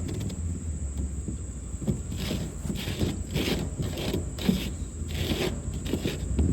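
The plastic cap and fitting on an IBC tote's valve being twisted and handled, coming undone: a run of short scraping rubs, roughly two a second, starting about two seconds in.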